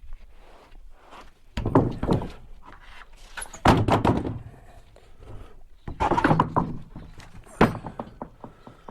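Four or five heavy thunks and knocks at uneven intervals, with quieter clattering between them.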